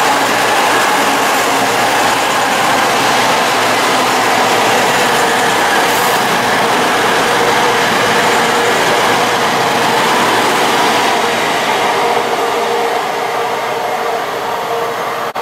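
A CrossCountry Voyager diesel multiple unit running through a station at speed: a loud, steady rush of wheels on rail, air and underfloor engines as its coaches go by. After about twelve seconds it eases to a somewhat quieter steady rumble.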